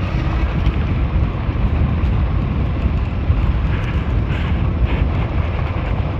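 Wind buffeting a helmet-mounted microphone, over the rumble of fat tires rolling along a dirt road on an all-wheel-drive fat-tire e-bike.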